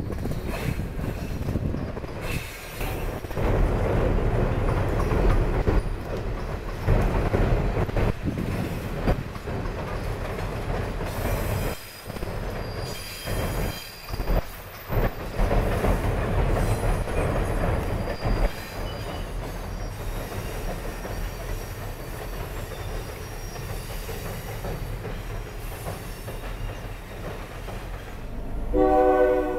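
Passenger train hauled by an EMD GP10 diesel rolling across a steel girder bridge, its wheels rumbling and clattering, with a brief high wheel squeal midway. The sound fades as the train passes. Near the end the locomotive's horn starts to blow.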